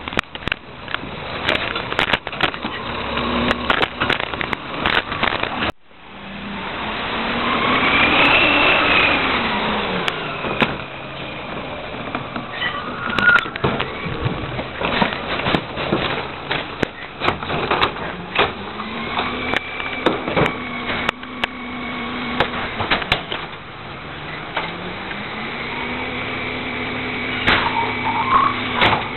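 Heil 5000 rear-loader garbage truck at work: the engine revs up and holds at a higher pitch, then drops back, three times, as the packer is run. Frequent sharp knocks and clatter of trash throughout.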